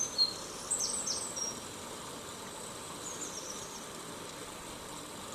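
Steady hiss of falling rain, with short high chirps in the first second or so and again about three seconds in.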